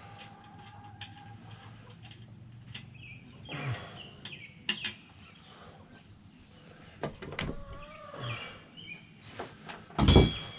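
Small birds chirping, with scattered clicks and knocks of hand work on a motorcycle's rear wheel and chain. Near the end comes one loud metallic clank that rings briefly.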